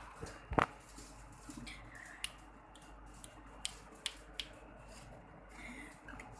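Faint, short high squeaks from newborn kittens, twice, among a knock about half a second in and several sharp clicks from handling over a steady low hum.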